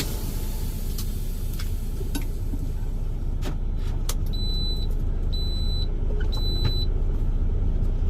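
Steady low rumble of a truck running, heard from inside the cab, with a few scattered clicks. Three short high beeps sound about a second apart midway through.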